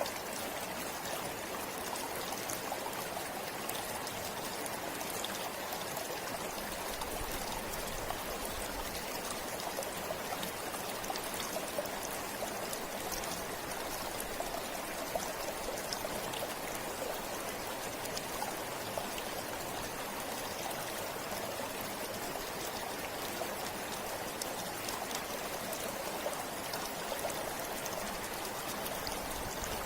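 A forest river or stream flowing steadily, a constant rush of water with small splashes and trickles mixed in.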